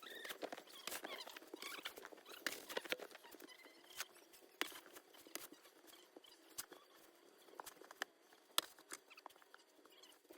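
Snow shoveling: irregular crunches, scrapes and clicks of a shovel and boots working through deep snow, busier in the first few seconds and sparser later.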